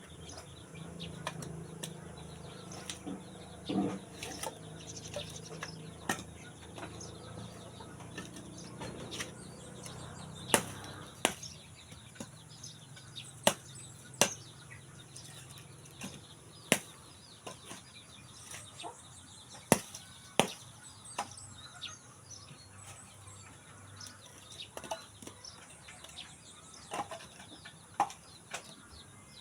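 Irregular sharp knocks, several seconds apart, the loudest coming in the middle of the stretch, with chickens faintly in the background.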